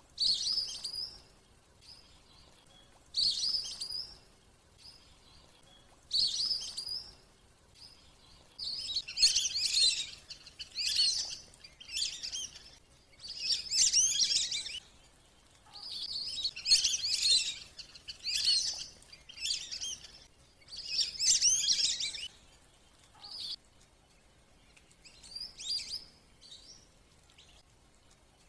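Wandering whistling ducks (belibis kembang) calling: bursts of high, twittering whistles every one to three seconds. The bursts come thickest and loudest in the middle and thin out near the end.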